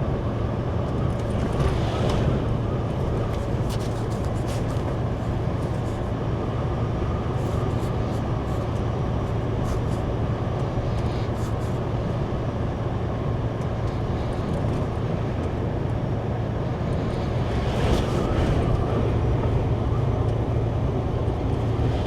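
Steady engine and road noise of a semi-truck tractor heard inside its cab while driving, with a constant low hum and a few faint clicks.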